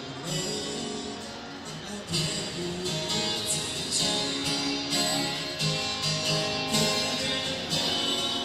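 Instrumental break in a band's pop ballad, led by guitar, with a steady beat.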